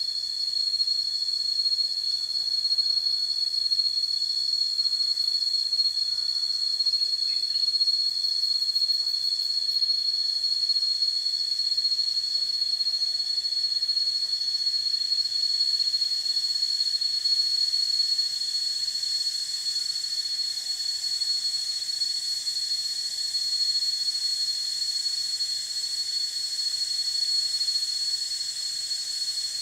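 A chorus of insects, such as crickets or cicadas, holding one unbroken shrill, high-pitched tone with a hiss above it, at an even level throughout.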